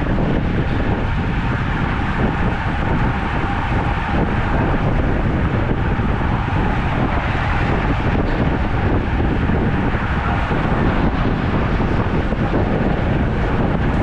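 Steady wind rushing over the microphone of a road bike moving at speed, with no let-up or separate events.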